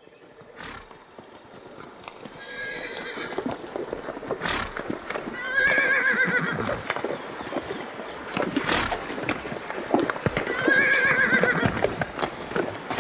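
A horse whinnying three times, each call a wavering, quavering neigh, over the clatter and knocks of hooves. The sound fades in at the start.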